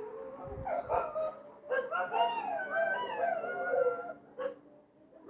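Dog howling and whining in long, wavering cries that slide up and down in pitch, a short cry near the start and a longer one from about two seconds in, dying away near the end.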